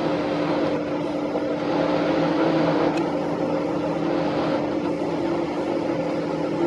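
Car engine and road noise, a steady hum with a constant low drone.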